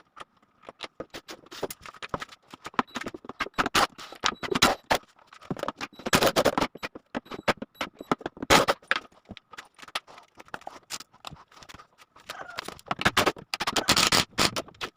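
Irregular knocking, clattering and scraping of wood and tools being handled at a workbench, with clusters of sharp knocks about four, six, eight and a half, and thirteen to fourteen seconds in.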